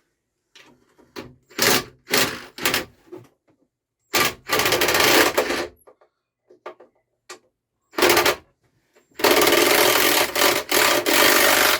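Ratchet spanner clicking in fast runs while loosening a 13 mm engine-mounting bolt on a push mower, after a few short metal knocks. The longest run comes near the end and lasts about two and a half seconds.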